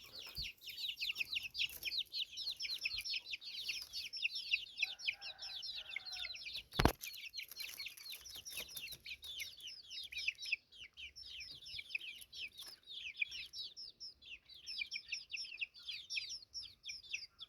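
Many small birds chirping without pause, a dense chorus of quick, high chirps that each fall in pitch. A single sharp click about seven seconds in.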